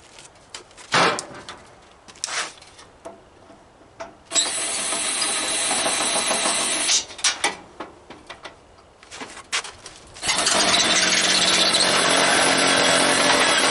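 Power drill running in two stretches, briefly from about four seconds in and again steadily from about ten seconds in, working on a metal barbecue grill. Sharp knocks and clatter of metal parts come before and between the runs.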